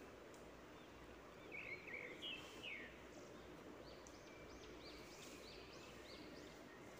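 Near silence with faint bird chirps: a few short calls between about one and three seconds in, then a run of quick, high, rising-and-falling chirps later on.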